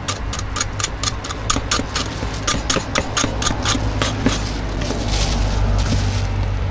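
A cooking utensil tapping rapidly and evenly during food preparation, about five strikes a second, stopping about six seconds in, over a steady low hum.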